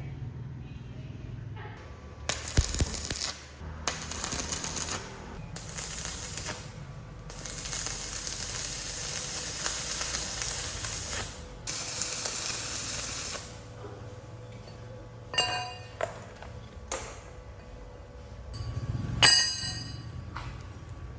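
Pressurised spray hissing in five bursts, the longest about four seconds, followed by a few light metallic clinks and pings near the end.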